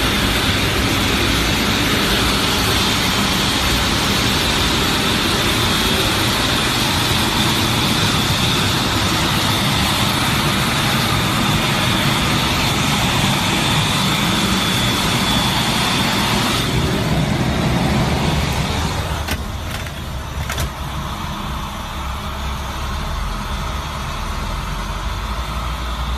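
Loud, steady engine noise from an aircraft pushback, a roar with a high whine over it. About seventeen seconds in, the whine and roar drop away, leaving a lower engine rumble.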